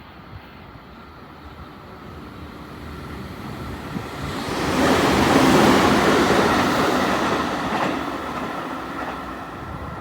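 Shizuoka Railway Shizuoka-Shimizu Line electric train passing, its rumble growing, loudest about five to seven seconds in, then fading away.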